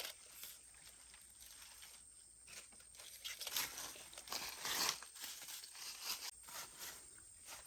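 Irregular rustling and scraping noises, with a louder stretch about three and a half to five seconds in.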